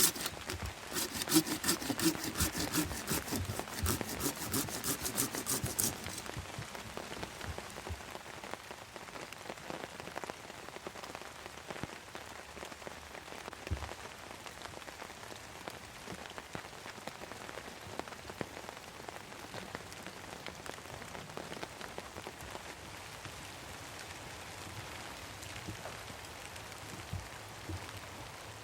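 Steady rain falling, an even hiss scattered with single drops ticking. For the first six seconds a louder, faster run of close ticks and patter sits over it.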